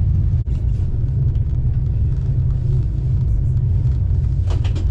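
Steady low rumble of a moving passenger train heard from inside the coach, with a short cluster of clicks near the end.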